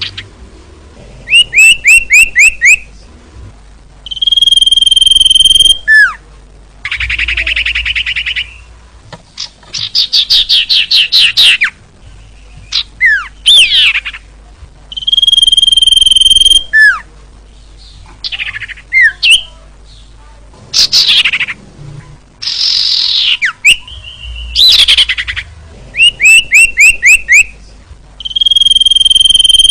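Recorded calls of a female common iora (cipoh), a lure call for males. Runs of about six quick chirps, long steady whistles that end in a downward slur, and fast buzzy trills, repeating in a cycle.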